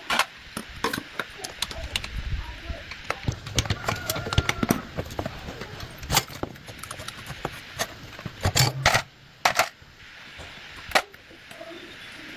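Irregular metallic clinks and knocks of hand tools and parts being handled during motorcycle repair work, with a few sharper knocks in the second half.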